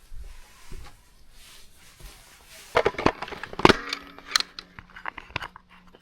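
Camping gear being handled: after a quiet start, a quick run of sharp clicks and knocks begins about halfway through and keeps going, with a faint steady hum coming in soon after.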